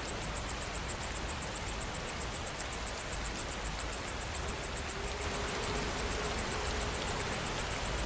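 Steady rain falling, with a night insect chirping in a high, even pulse about six times a second.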